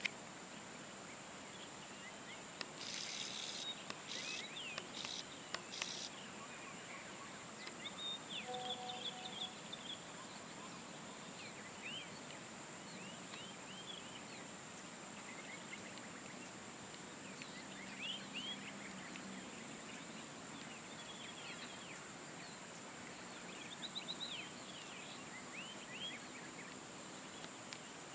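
Outdoor nature ambience: a steady high-pitched drone runs under scattered bird chirps. Between about three and six seconds in there is a run of four harsh, noisy calls.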